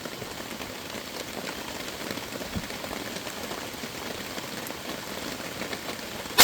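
Steady rain falling on a tarp overhead, an even hiss.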